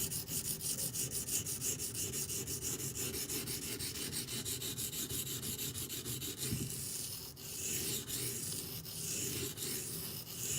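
A D2-steel Benchmade Griptilian blade ground back and forth on a coarse 240-grit silicon carbide benchstone: quick, short scraping strokes about five a second, changing about two-thirds through to slower, longer strokes.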